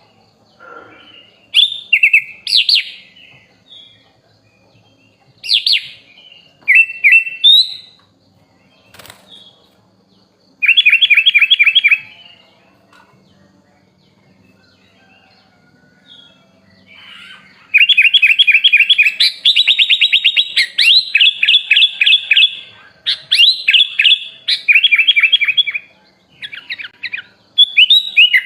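Sooty-headed bulbul (kutilang) singing in short bursts of chirps and fast rattling trills, sparse at first and then almost continuous from about two-thirds of the way in.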